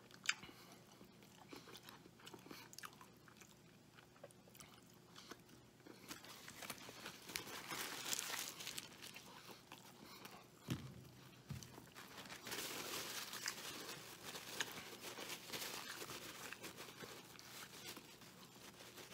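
A man chewing and biting into a Wendy's Triple Baconator burger close to the microphone. It is faint at first with a few sharp clicks, then louder and denser from about six seconds in.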